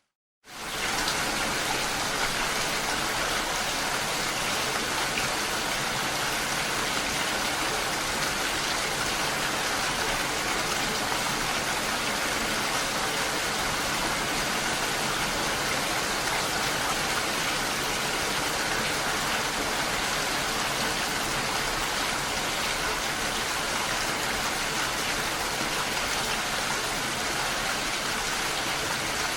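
Steady rain falling, an even hiss of many drops. It cuts in suddenly after a brief silence about half a second in, then holds at one level.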